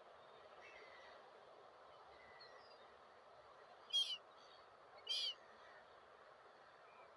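Two short, sharp gull calls about a second apart, near the middle, over a faint steady background noise.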